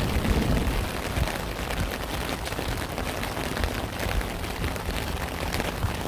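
Rain falling steadily, a dense patter of drops, with a low rumble of thunder dying away in the first second.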